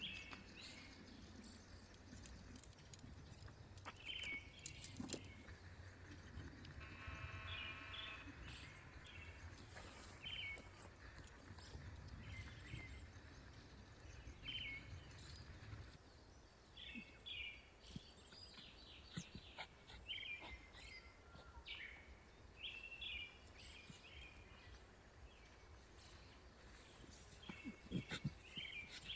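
Birds chirping in short repeated calls over a low wind rumble that eases about halfway, with one longer, buzzy call at about seven seconds. A few sharp knocks near the end are the loudest sounds.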